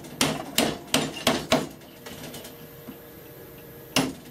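A chisel struck into the wooden body of a rebate plane, chopping out its throat: five quick, sharp knocks in the first second and a half, then one more near the end.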